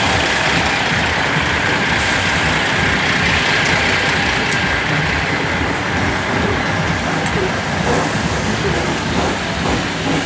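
A heavy truck running close by, loud and steady.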